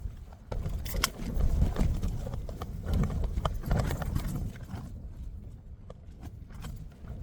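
Storm wind gusting against a Hilleberg Jannu tent: a low buffeting rumble with irregular snaps and knocks from the flysheet fabric. The gust eases about five seconds in.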